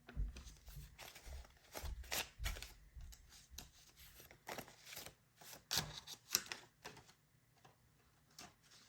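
Paper banknotes being handled and sorted by hand: a run of short rustles and crisp paper snaps, frequent for about seven seconds and then thinning out.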